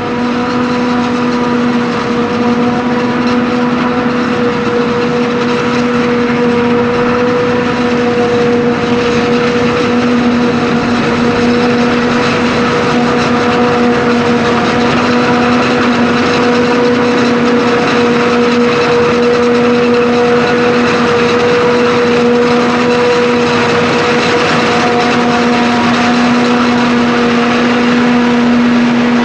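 Maize harvesting machinery (forage harvester and tractors) running steadily at constant speed: a loud, even mechanical hum with a constant pitched whine.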